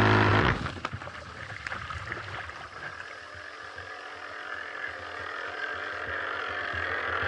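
RC outrigger racing boat's motor running steadily, then cut sharply about half a second in. After that, quieter water washing and gurgling around the hull while the boat coasts, with the motor sound slowly building again toward the end.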